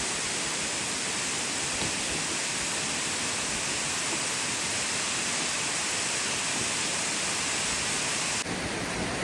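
Steady rushing of falling water, an even hiss with no rhythm. Its tone changes abruptly near the end.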